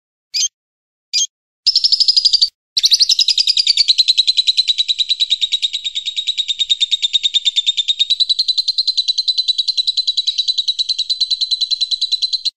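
A songbird gives two short, sharp chirps. After about a second and a half it breaks into a long, very fast trill, high and fairly even in pitch, that runs for about ten seconds with one brief break early on.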